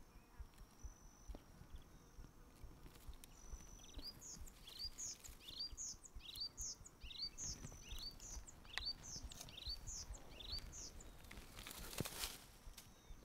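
A small bird singing a run of about twenty quick chirps, alternating higher and lower notes. Near the end, a brief loud rustle as the camera is moved against leaves.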